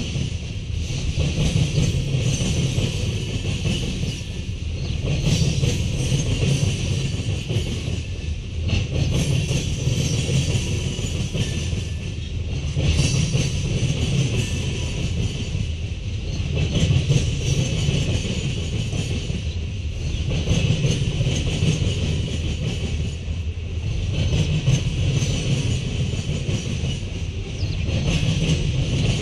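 Freight train of tank cars and covered hoppers rolling slowly past: a steady low rumble that swells about every four seconds as each car's wheels go by, with a steady high whine over it.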